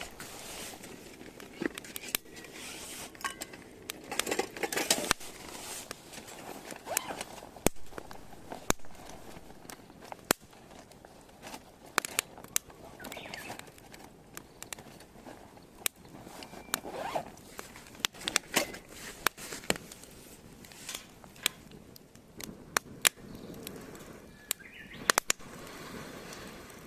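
Wood fire crackling, with frequent sharp, irregular pops and snaps over a steady hiss.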